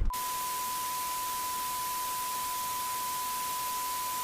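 A steady, unwavering 1 kHz reference tone over a bed of hiss, cutting in abruptly right at the start, like a test tone added in the edit.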